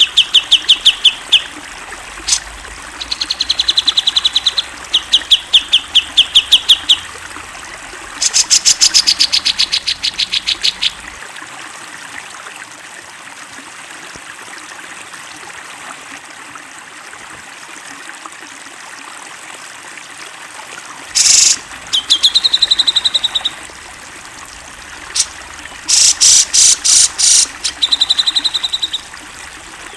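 Grey-cheeked bulbul (cucak jenggot) singing in loud bursts of rapid repeated high notes, with a quiet gap of about ten seconds in the middle, over a steady trickle of water.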